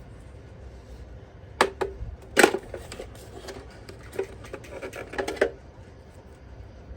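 A run of sharp clicks and knocks from hard objects being handled, coming in quick clusters for a few seconds with the loudest knock about two and a half seconds in.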